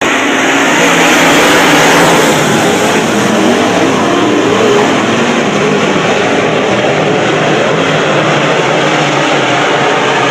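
Dirt-track race car engines running hard at speed, a loud continuous wash of engine noise with shifting pitches, slightly louder about two seconds in.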